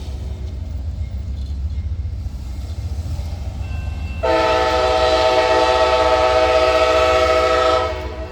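Train horn blowing one long, loud chord of about three and a half seconds, starting abruptly about four seconds in and cutting off, over the steady low rumble of the train; a fainter horn chord sounds in the first few seconds.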